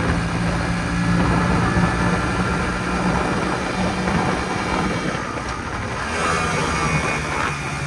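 Jawa 250/559 motorcycle's single-cylinder two-stroke engine running under way, holding a fairly steady pitch, with its tone easing a little about five seconds in.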